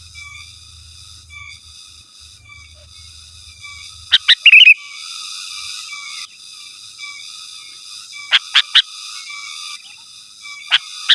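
Sooty-headed bulbul calling in short, loud whistled bursts: two notes and a quick warble about four seconds in, three notes around eight and a half seconds, and one more near the end. The calls sit over a steady high-pitched chorus of chirping.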